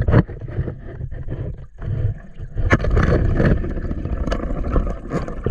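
Water rushing and churning with a loud, steady low rumble, broken by scattered sharp clicks and knocks.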